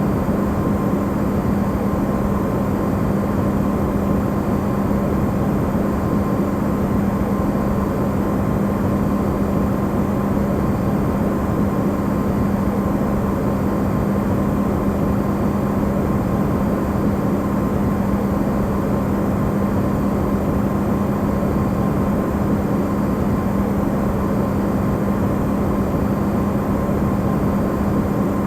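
Amplified sound of an Electrolux refrigerator running: a steady, even noise with a strong low hum and a fainter high tone above it.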